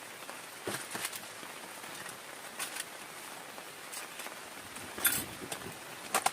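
Steady rain hiss with irregular sharp taps of large drops striking a nearby surface, the clearest about a second in and about five seconds in.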